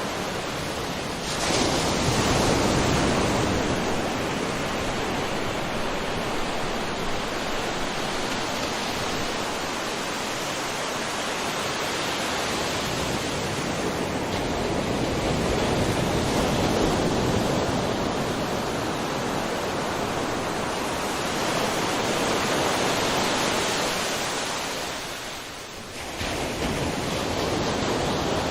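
Sea waves washing onto a shore: a continuous rush that swells and eases every few seconds. It jumps up suddenly about a second in and dips briefly before coming straight back near the end.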